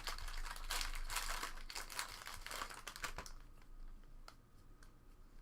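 Crinkling and rustling of trading cards and a foil card-pack wrapper being handled, for about three seconds, then much quieter with a few faint clicks.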